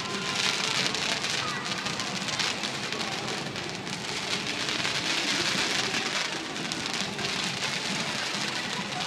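Fireworks crackling: a dense, steady hiss of many small pops, with no big booms.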